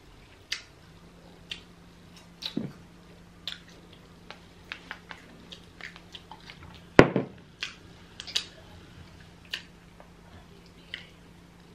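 Close-up eating sounds: chewing and mouth smacks on grilled mackerel and plantain, with scattered small clicks and one sharper knock about seven seconds in, over a faint steady hum.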